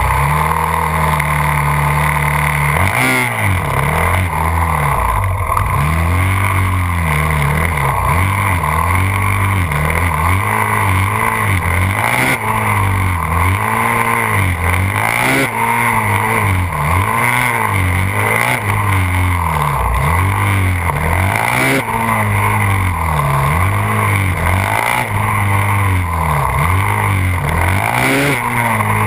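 Yamaha WR450F's single-cylinder four-stroke engine, heard from on board the bike: steady for about the first three seconds, then revving up and falling back over and over, roughly once a second, as the bike accelerates and slows between tight gymkhana turns.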